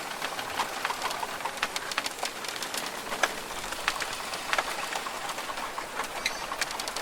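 Australian rainforest ambience: a steady, even hiss with many sharp drip-like ticks scattered through it, and a bird calling.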